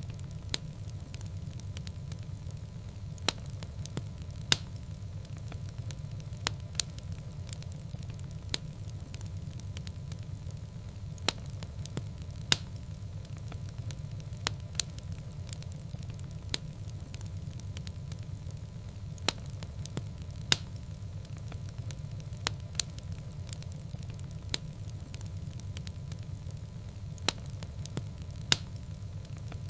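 Fire burning in a fireplace: a steady low rumble with sharp crackles and pops at irregular moments, roughly one every second or two.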